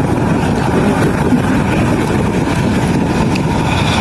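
Aircraft engines heard at an airport, a loud, steady rumble.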